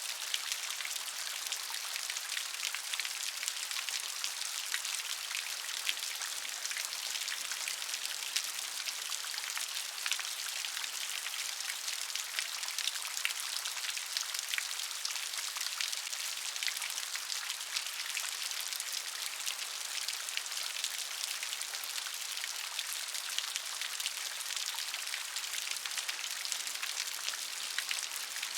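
Steady gentle rain, a dense patter of fine drops on a surface, with no thunder and no change in strength.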